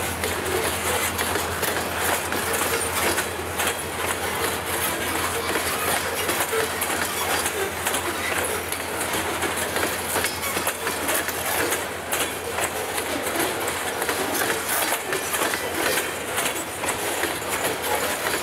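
Loaded covered hopper cars of a grain train rolling past at speed: steady noise of steel wheels on the rails, with rapid clicks as the wheels cross rail joints.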